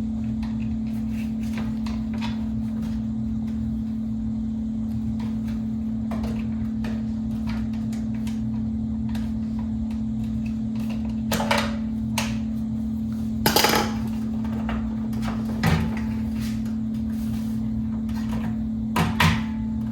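Parts of a box fan being handled during reassembly: a few hard knocks and clatters in the second half, over a steady low hum.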